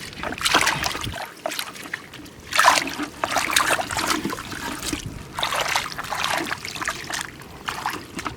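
Water splashing and trickling in repeated bursts, with three longer splashes about half a second in, near the middle and about two-thirds of the way through.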